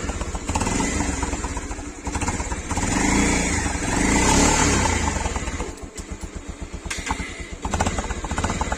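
Bajaj Pulsar 150's single-cylinder engine running through a loud aftermarket exhaust, revved up and down: a long rev from about two and a half to five seconds in, falling back to a lumpy, pulsing idle, then further blips near the end.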